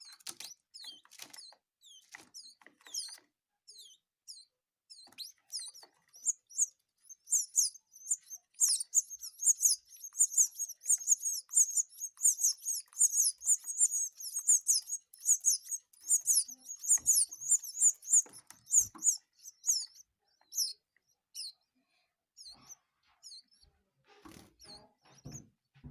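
Canary nestlings begging while being fed: a rapid stream of thin, high cheeps that swells into a dense chorus midway, then thins out. A few soft knocks and rustles come near the end.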